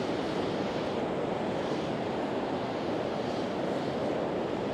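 Steady rush of sea surf and wind on an open beach: an even noise with no distinct events.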